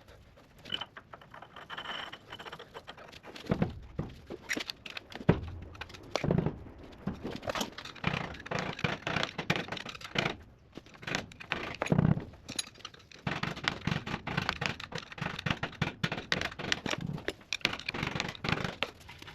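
Hand tools and metal parts clinking, scraping and knocking during reassembly of a truck's rear wheel hub, with a handful of heavier thunks among the lighter clicks.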